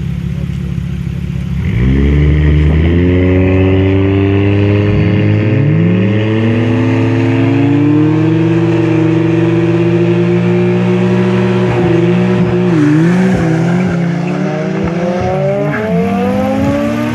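Car engine idling, then revving up sharply about two seconds in and pulling hard as the car accelerates from a start, holding high revs with a couple of brief dips and climbing in pitch again near the end.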